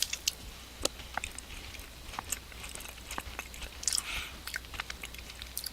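Biting into and chewing a frozen ice cream sandwich with a firm cookie top: scattered small crunches and mouth sounds.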